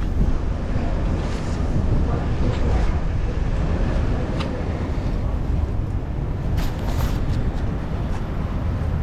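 Wind rumbling on the microphone of a camera riding on a moving bicycle, with road and traffic noise underneath and a few sharp ticks.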